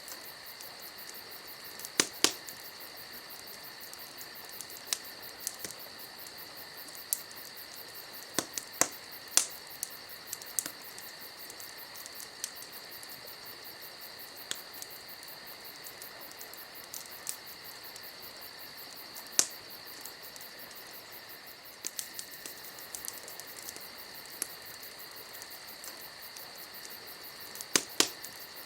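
Wood campfire crackling, with sharp irregular pops (a few louder ones about two seconds in, around nine seconds and near the end) over a steady high-pitched drone.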